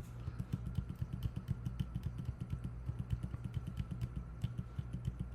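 Rapid, uneven clicking of computer controls as images are paged through, several clicks a second, over a low steady hum.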